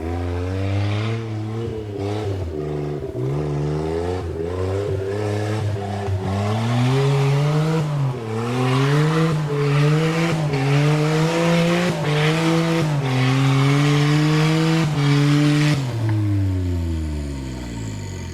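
Suzuki Jimny JA11's engine revving hard, its pitch climbing and dropping repeatedly as the throttle is worked, with a rushing hiss over it in the middle. It winds down steadily near the end.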